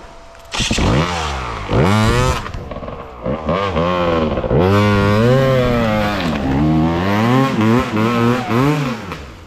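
Dirt bike engine revved hard in repeated rising and falling surges, its rear wheel spinning and throwing mud.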